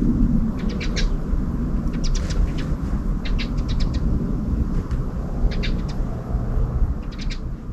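A bird calling in short runs of quick, high chirps that come back every second or two, over a steady low rumble of wind or distant background noise.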